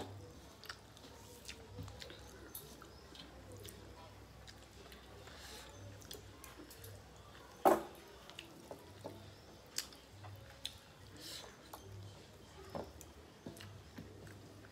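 Chewing and the small wet sounds of eating rice and fish curry by hand from metal plates, with scattered soft clicks and one louder sharp click a little past halfway.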